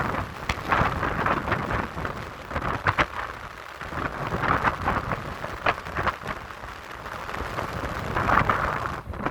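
Strong, gusty wind buffeting the microphone, rumbling and crackling as it swells and eases.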